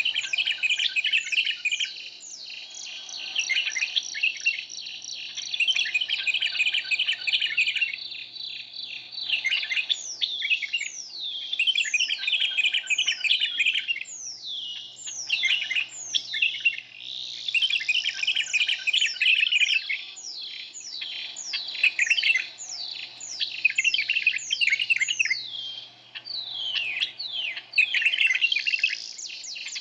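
Canary singing a long continuous song: fast trills of repeated high notes, changing every few seconds to slower series of falling, sweeping notes.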